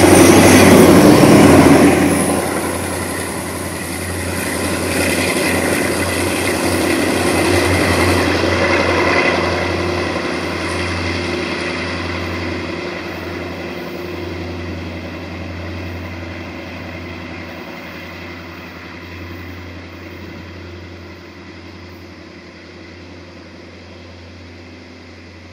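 Diesel engine of a DE24000 diesel-electric locomotive banking at the rear of a freight train, loudest as it passes and then fading steadily as it moves away.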